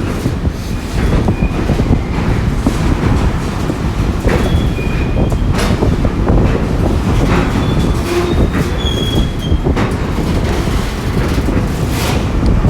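A train rolling past close by with a heavy rumble, its wheels knocking over rail joints, and a few brief wheel squeals about midway.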